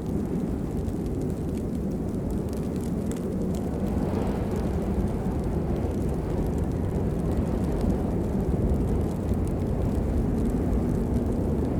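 Steady rain: a dense, low rushing noise with faint scattered drop ticks on top, swelling slightly about four seconds in.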